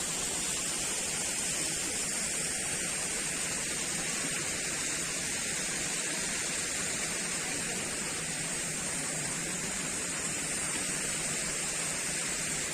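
A steady, even hiss of outdoor background noise with no distinct events, its strongest part high-pitched.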